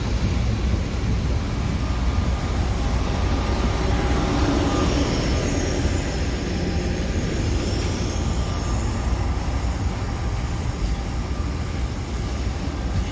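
A train running past with a steady rumble.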